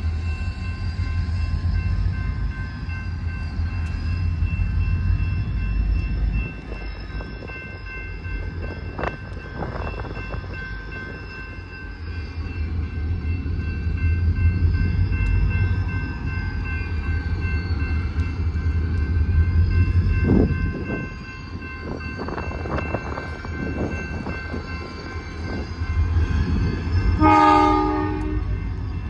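Diesel switching locomotive running, its low engine rumble rising and easing as it works, with a few short sharp clanks. Near the end it gives a short horn blast.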